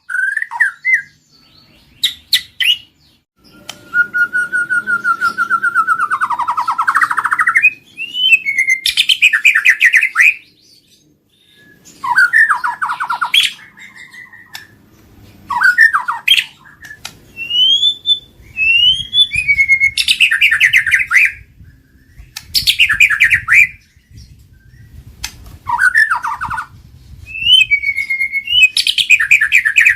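White-rumped shama (murai batu) singing: loud phrases of whistled glides and fast rattling trills, each a second or two long, repeated with short pauses between them.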